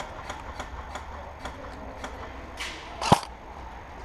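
Airsoft guns firing: sharp clicking shots about three a second, then one much louder, closer shot about three seconds in.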